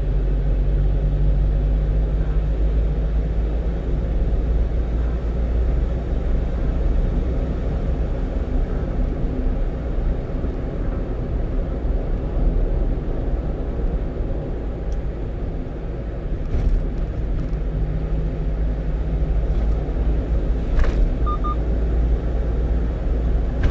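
Steady low rumble of engine and road noise inside the cab of a 1-ton truck driving along, with a faint engine hum and a few faint clicks late on.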